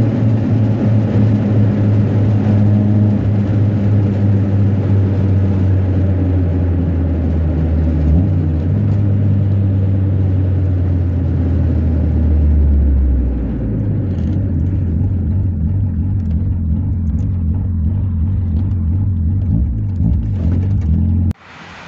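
Honda Civic's D16 1.6-litre four-cylinder engine heard from inside the cabin while driving at a moderate pace, a steady low drone. About thirteen seconds in the note drops and gets quieter as the car eases off, and the sound cuts off abruptly near the end.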